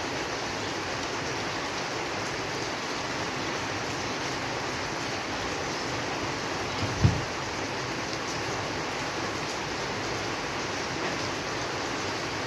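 Steady rain falling, an even hiss with no break. A little past halfway comes one brief low thump.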